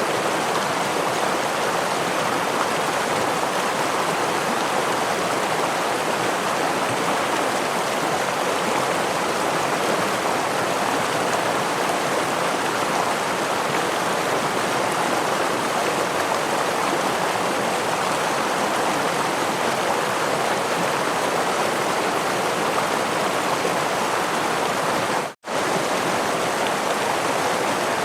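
Steady rush of water from a forest stream and small waterfall, an even flowing hiss with no distinct splashes. It drops out for a split second near the end, then resumes unchanged.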